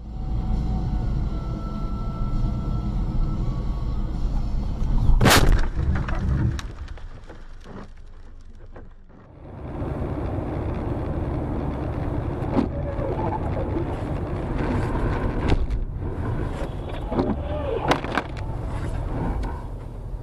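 Steady road and engine rumble of a moving car as picked up by a dashcam, with one sharp loud bang about five seconds in. The sound changes abruptly about nine seconds in, then the rumble continues with a few lighter knocks.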